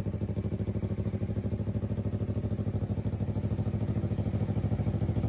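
Honda CBR250RR parallel-twin engine idling through a custom aftermarket exhaust, a steady, rapid, even pulse of exhaust beats that grows slightly louder near the end.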